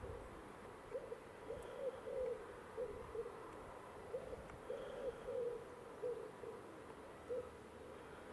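A bird's low calls: short notes repeated every half second or so, often in twos or threes, with a faint steady tone behind them.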